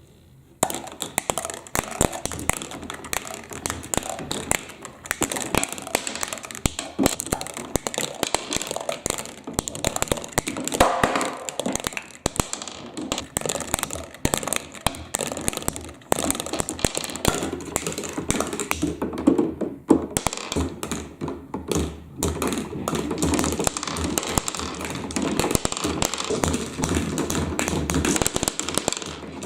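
Many small plastic balls clattering and rolling down a plastic marble-run track, a dense, unbroken stream of clicks and taps that starts abruptly about half a second in.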